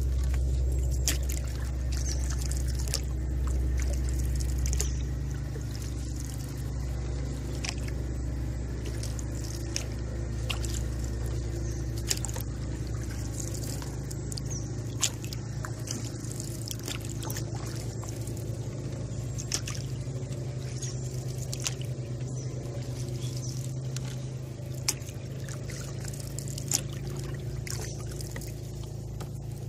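Light rain on a calm river around a canoe: single drops make sharp ticks every few seconds over a steady low rumble, which eases after the first few seconds.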